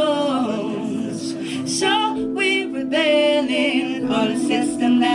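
Woman singing a slow, wordless melody over a steady held chord.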